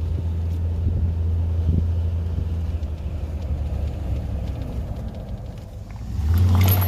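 A vehicle engine running with a steady low drone, swelling louder near the end.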